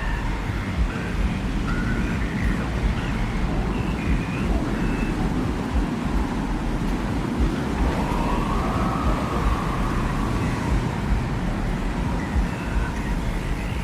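Desert wind ambience: a dense, steady low rumble of wind, with faint, brief whistling tones and a slow rising-and-falling tone that swells and fades between about eight and ten seconds in.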